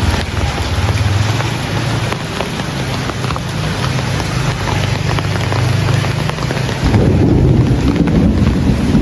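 Heavy rain falling steadily, with a low rumble of thunder rolling in about seven seconds in.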